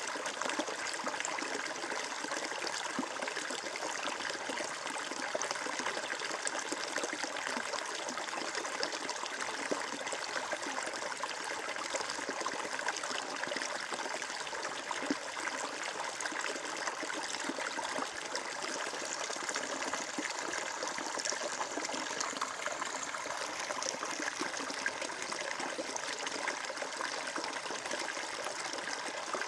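Water flowing and trickling steadily over stones, an even splashing with no change in level.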